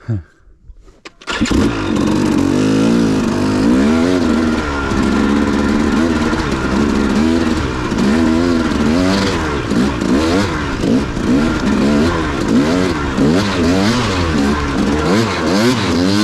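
Dirt bike engine revved up and down again and again in short throttle blips as the rider works the bike up a rocky obstacle. It cuts in suddenly about a second in.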